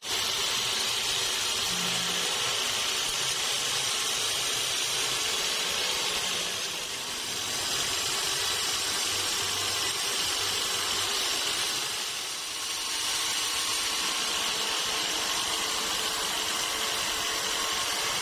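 Sawmill saw cutting lengthwise through a teak log with a steady, high-pitched whine and hiss, easing briefly about seven and twelve seconds in.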